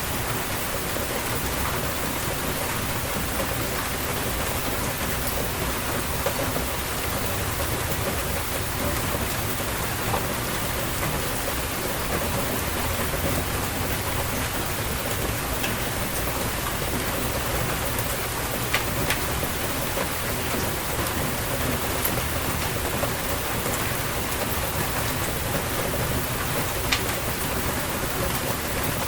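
Steady rainfall pattering on surfaces, a constant hiss with occasional sharper drop ticks.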